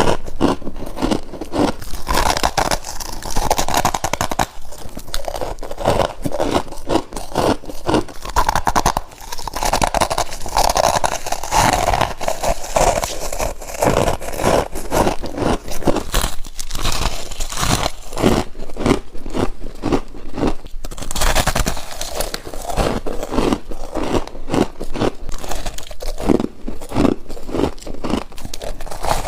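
Close-up crunching of frozen humidifier frost being bitten, one crackly bite after another with no pause.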